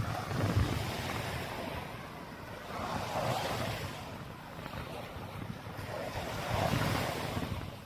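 Small surf washing up on the beach, swelling and fading about every three seconds, with wind rumbling on the microphone.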